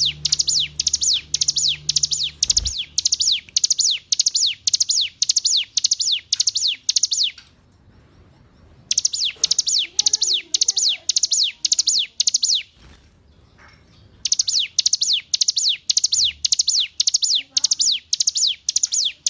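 Ciblek gunung, a prinia, singing long runs of quick, sharp, high notes that each fall steeply in pitch, about three a second. The song breaks off twice for a second or two.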